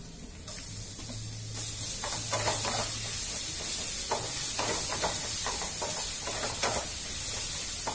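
Garlic paste sizzling as it hits hot oil with fried onions in a kadai. The sizzle swells about a second and a half in and holds, with a spatula scraping and stirring through it in short strokes.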